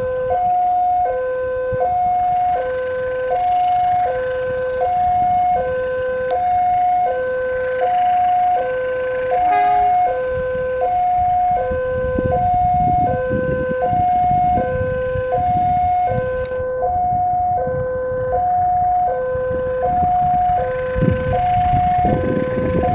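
Electronic level-crossing warning alarm sounding a steady two-tone alternating signal, low and high notes swapping about every half second, which warns that a train is approaching. A low rumble rises beneath it about halfway through and again near the end.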